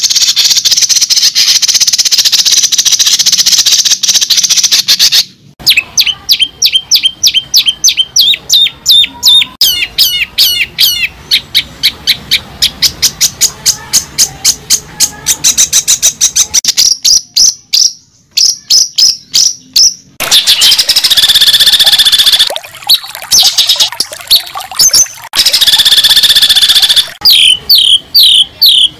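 A songbird singing loud and close, with buzzy trills and rapid runs of repeated high chirps.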